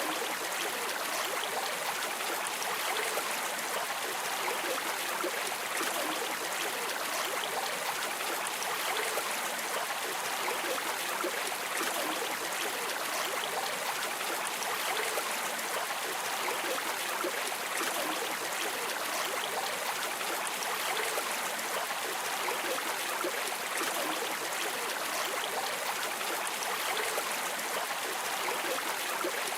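Flowing river water: a steady, even rush of a stream running over rocks.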